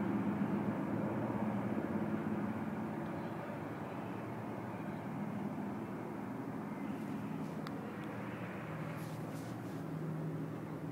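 Steady drone of vintage piston-engined warplanes in flight, slowly fading.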